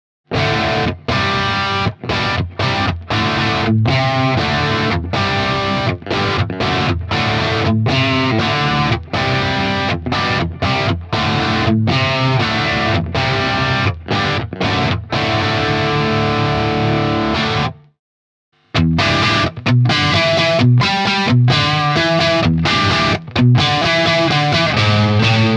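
Electric guitar with Leosounds Fireball single-coil pickups played through a BSM 71/73 treble booster into an AC30-style amp, giving a crunchy, overdriven tone on choppy chords and riffs. The playing breaks off for about a second roughly two-thirds of the way through, then starts again.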